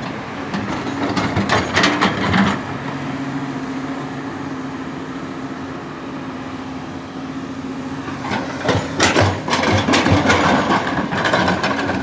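Diesel engine of heavy earthmoving machinery running steadily, with two stretches of clattering knocks and scraping: about a second in, and again from about eight seconds in.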